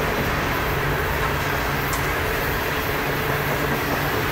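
Coal hopper cars of a freight train rolling past: a steady rumble of steel wheels on the rails.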